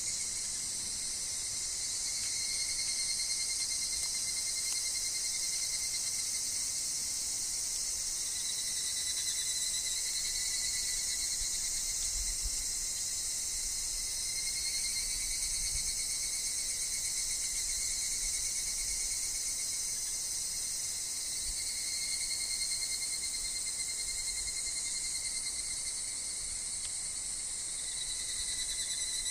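Steady chorus of singing insects: a dense high buzz over a continuous, faintly pulsing tone.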